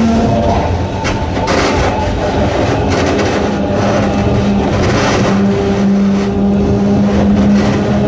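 Narrow-gauge electric train with nose-suspended traction motors running, a steady motor hum over rail rumble, with a few sharp clicks about a second in.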